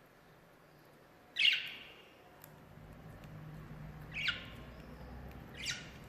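A pet bird gives three short, harsh calls, each falling in pitch, the first the loudest, a few seconds apart.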